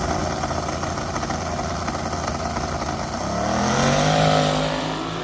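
Drag-racing engine running over a steady rush of noise, then about three seconds in its note climbs as the vehicle accelerates hard, loudest around four seconds in before easing off.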